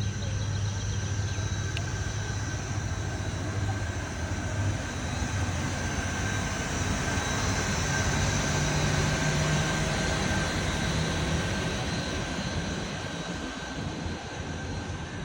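Aircraft passing overhead: a steady engine rumble that grows louder towards the middle and fades near the end.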